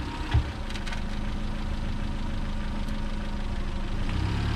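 1990 Honda Civic wagon's engine idling steadily and smoothly, running warm on its new radiator and thermostat. A brief thump about a third of a second in, and a deeper hum joins about four seconds in.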